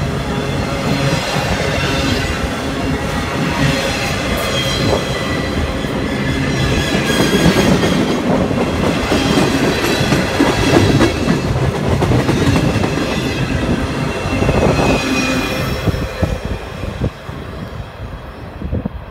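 Freight train cars rolling past close by: steel wheels rumbling and clacking over the rails, with thin high wheel squeal. The sound fades over the last few seconds as the end of the train passes and moves away.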